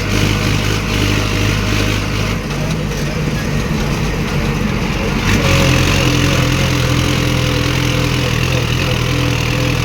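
Mahindra Arjun 555 tractor's diesel engine running steadily under load while towing a heavily loaded trolley, its note stepping up a little about five seconds in.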